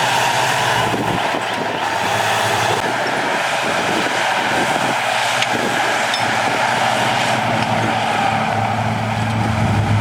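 Heavy diesel engine of earthmoving machinery running steadily under work, with a low hum that grows stronger near the end.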